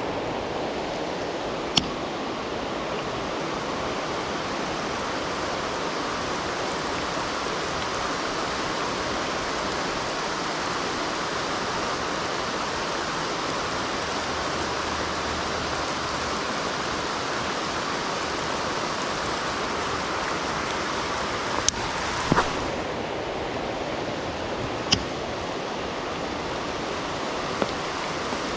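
Heavy rain falling steadily in a downpour, an even hiss, with a few sharp taps, one near the start and several in the last third.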